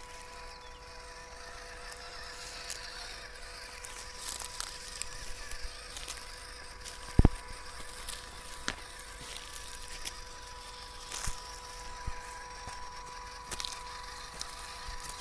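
Small 1/12-scale RC crawler truck running over rough ground: scattered clicks and knocks over a steady high hum, with one loud knock about seven seconds in.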